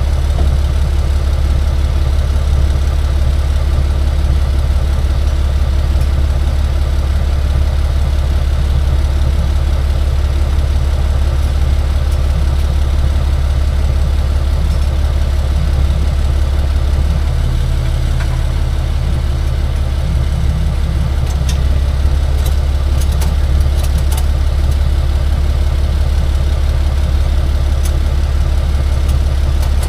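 A vehicle engine running with a steady low drone, with an added hum partway through and a few light clicks a little later.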